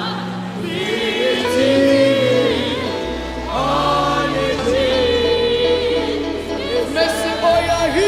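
Gospel choir singing long held phrases over a steady bass accompaniment.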